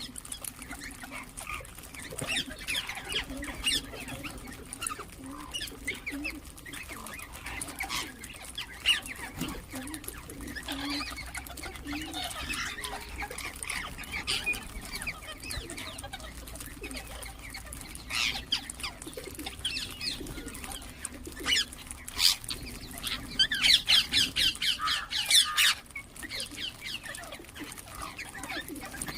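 Ringneck parakeets chirping and calling in short scattered notes, with a loud run of rapid repeated calls about three-quarters of the way through.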